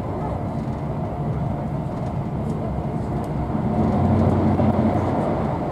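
Class 43 HST 'Intercity 125' train running at speed, heard from inside a passenger coach: a steady low rumble of the train on the rails, growing somewhat louder about four seconds in.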